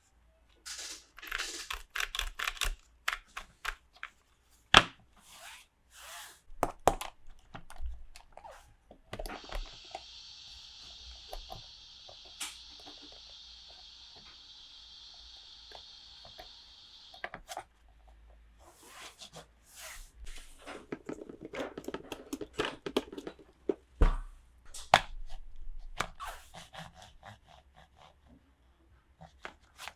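Plastic and cardboard toy packaging being handled and opened: crinkling, clicks and taps, with a steady hissing rustle lasting about eight seconds in the middle.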